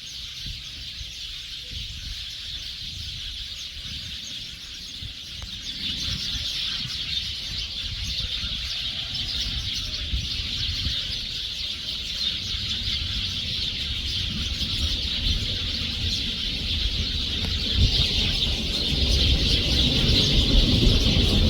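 A flock of small birds chattering all at once in a roosting tree: a dense, unbroken mass of high chirps as they gather to roost before sunset. The chorus grows steadily louder, over a low rumble underneath.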